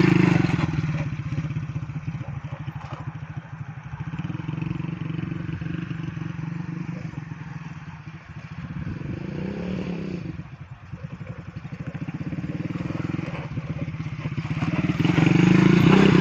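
Motorcycle engine running, louder at the start and again near the end, with a brief rev that rises and falls in pitch about nine seconds in.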